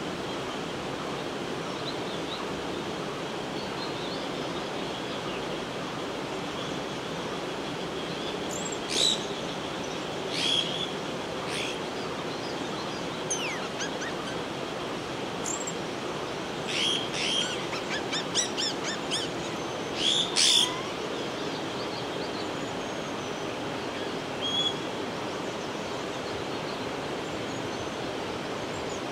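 Short, shrill bird calls, singly and in quick clusters, mostly through the middle and once more near the end, over a steady background hiss.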